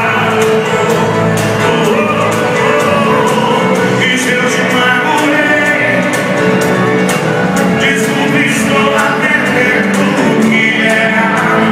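Live sertanejo band playing with sung vocals over a steady drum beat.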